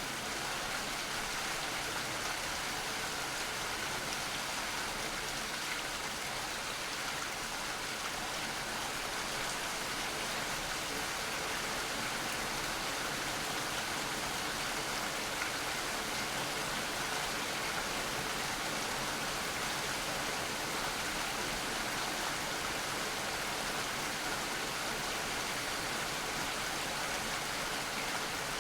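Steady rain falling, an even, unbroken hiss with no distinct drops standing out.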